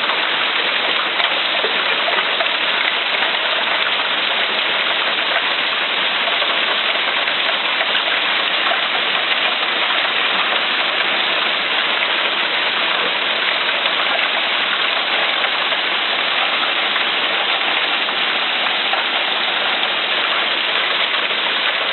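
Hail and heavy rain pouring down, a dense, steady hiss of countless small hits that stays even throughout.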